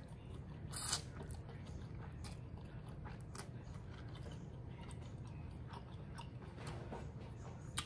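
Close-miked mouth sounds of a person chewing a mouthful of noodles: soft wet clicks and smacks at an irregular pace, with one louder smack about a second in.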